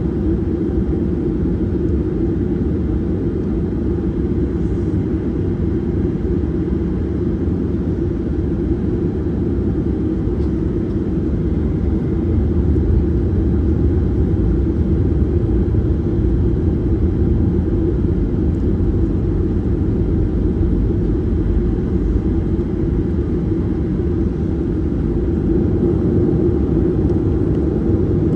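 Cabin noise inside a Boeing 737-800 in flight: a steady engine and airflow rumble with a low, constant hum.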